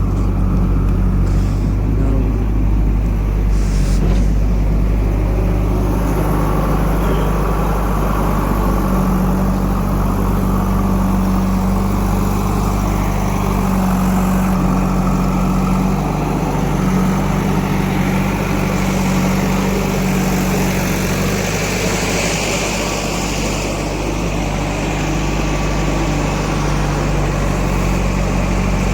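Heavy diesel engine of farm or earthmoving machinery running steadily. Its low hum grows stronger for a stretch in the middle and then eases again.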